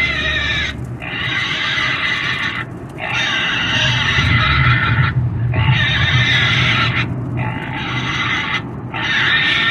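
Pig screaming in a run of long, shrill squeals, each broken off by a short pause for breath about every two seconds, over a steady low hum.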